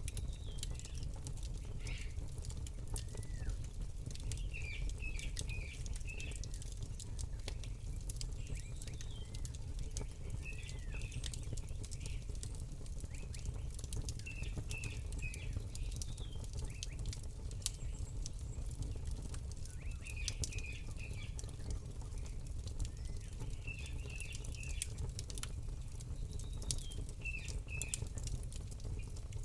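Campfire crackling with many small irregular snaps over a steady low rumble, while small birds chirp in short runs of a few notes every few seconds.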